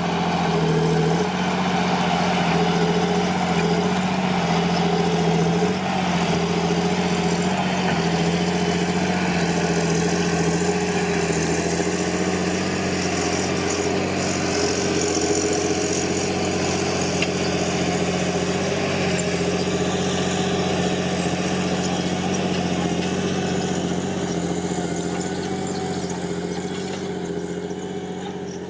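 John Deere 8520T tracked tractor's 8.1-litre PowerTech 6081 six-cylinder diesel running steadily and loud, with small shifts in pitch, then fading near the end.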